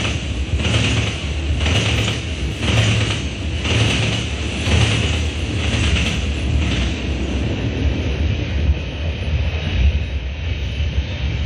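Freight cars of a fast-moving CN manifest train passing, their wheels clattering over the rails in an even rhythm about once a second. The clatter stops about seven seconds in as the last car clears, leaving a low steady rumble.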